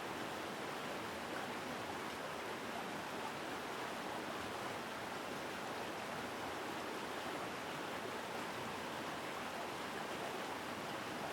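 Mountain stream rushing over rocks, a steady, full water noise.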